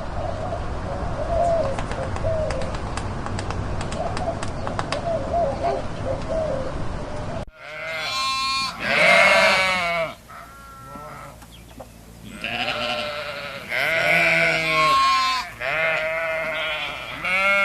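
A faint wavering call over a steady noisy background, then, after a sudden cut about seven seconds in, a series of loud, quavering animal calls, each a second or more long.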